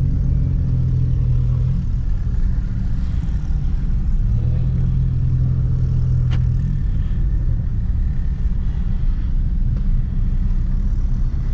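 Ford Focus ST moving slowly with a steady, low engine and exhaust drone and rumble; there is no revving. A single sharp click comes about six seconds in.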